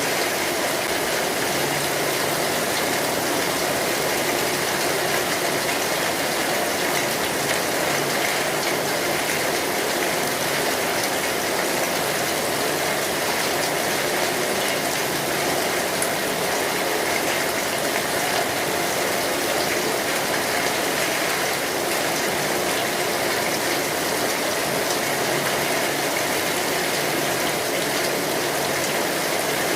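Steady rain drumming on a metal roof, a dense even wash of drops, mixed with the crackle of a wood fire.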